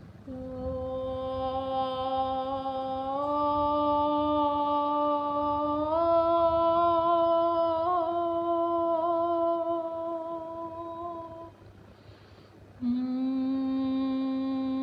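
A person's voice humming long, steady notes as healing 'sound frequencies', the pitch stepping up twice. The note breaks off for an audible breath near the end, and a new, lower note begins.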